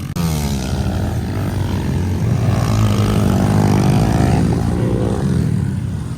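Pit bike engine racing. The revs fall away just after a brief break near the start, then climb again and hold high and loud through the middle.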